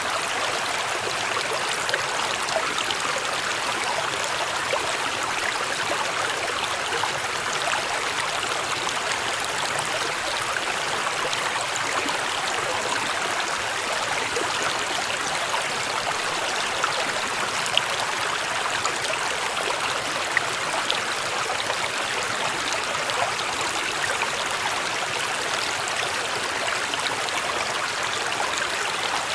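Small mountain brook running over stones, a steady rush of flowing water with light splashes and gurgles.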